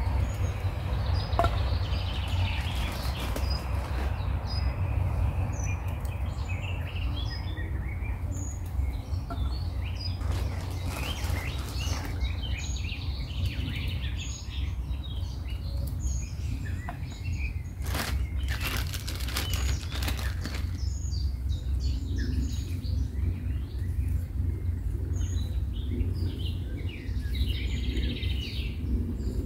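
Woodland birds chirping and singing, many short calls scattered throughout, over a steady low rumble. A few sharp crackles or knocks come a little past the middle.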